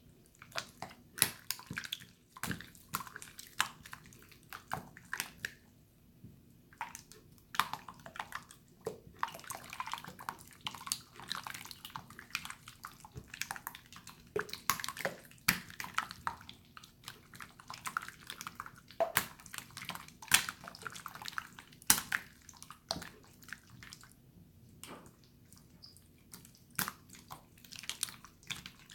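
Hands squishing and splashing a jiggly water slime: a busy run of wet clicks, pops and sloshes, easing off for a moment about three-quarters of the way through.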